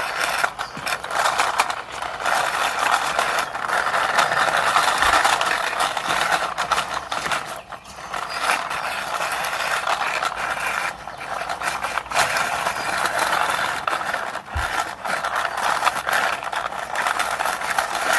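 Small plastic toy car pushed by hand, its wheels rolling and scraping over the ground in a continuous rattly grind, with brief pauses about 8 and 11 seconds in.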